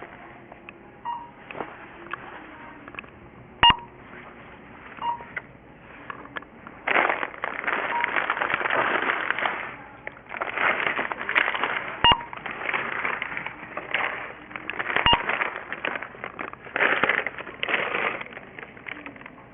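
Store checkout scanner beeping about six times, each a short single tone, three of them with a sharp click, amid stretches of rustling noise.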